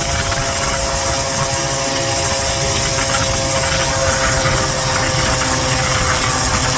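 Small gas scooter engine running steadily under way, a constant droning whine over rough noise.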